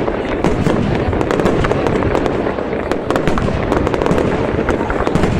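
Fireworks going off in a dense, continuous barrage of rapid crackling bangs over a steady rumble.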